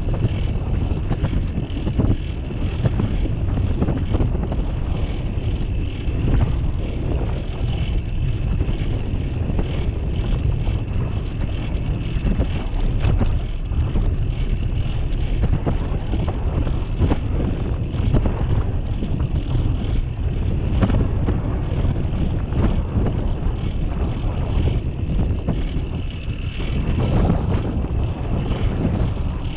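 Wind buffeting the microphone of a bicycle-mounted camera during a ride, over a steady low rumble and small rattling knocks from the bike moving over the path.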